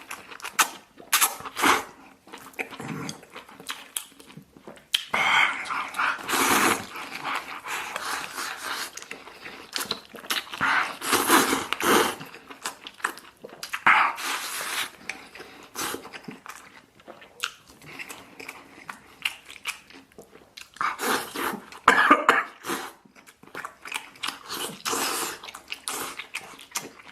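A person eating potato noodles and braised beef close to the microphone: chewing and mouth clicks, with several louder noisy stretches a second or two long.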